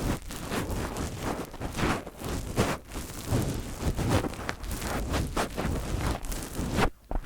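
Fingers rubbing, tapping and scratching directly on a microphone: a dense run of close, irregular rustles and scrapes that drops off sharply near the end.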